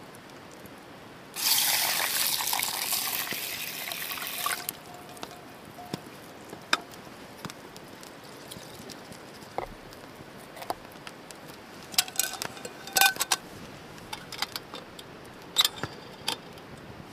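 Liquid pouring for about three seconds, starting suddenly and fading. Scattered light clicks and knocks follow.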